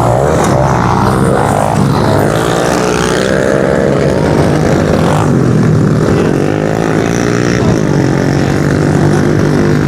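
Several 110cc pit bike engines racing on the track, their pitch repeatedly rising and falling as the riders open and close the throttle.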